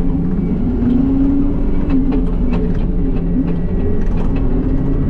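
John Deere 333E skid steer's diesel engine running under load, its pitch rising and falling as the machine works. A few sharp clanks and knocks come about two to four seconds in.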